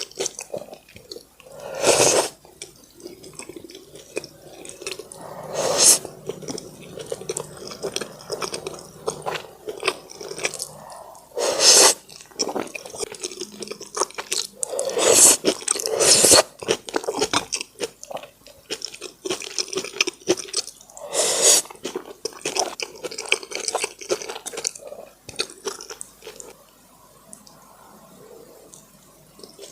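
Close-miked chewing of braised pork in brown sauce: a steady run of small wet mouth clicks, with about six louder bites a few seconds apart, then a quieter stretch near the end.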